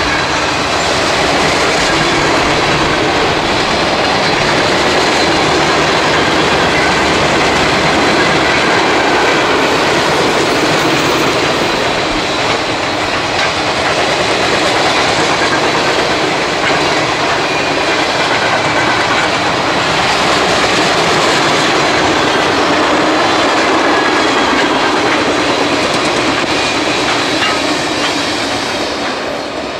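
Freight train cars rolling past close by: a steady rumble of wheels on rail with clickety-clack over the rail joints, easing off near the end.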